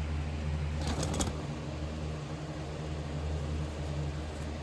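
Steady low machine hum, like a running motor or fan, with a brief clatter of small hard objects about a second in.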